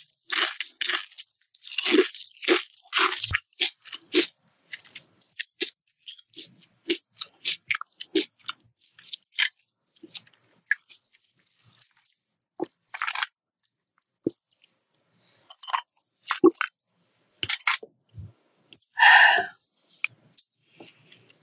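Close-miked chewing of crunchy food: a fast run of loud crunches over the first few seconds, then slower, sparser crunches as the bite is chewed down. A longer, louder noisy sound comes a little before the end.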